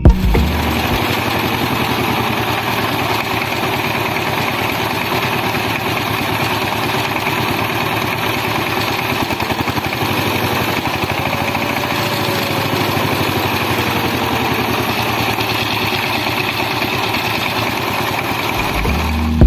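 Small motor of a DIY model thresher running steadily, with a fast, fine rattle. A faint tone drifts up and down in pitch, rising a little about halfway through.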